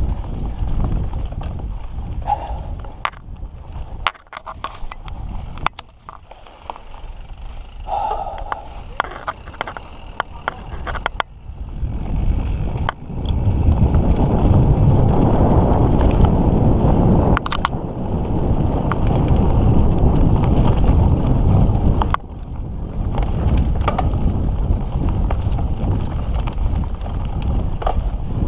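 Mountain bike being ridden on a dirt trail: wind rushing over the microphone and tyre rumble, with many sharp clicks and rattles from the bike over rough ground. It goes quieter a few seconds in, then the rumble grows much louder from about halfway through.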